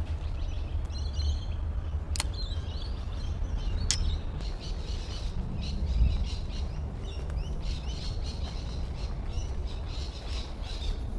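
Birds chirping and calling again and again over a steady low rumble, with two sharp clicks in the first few seconds.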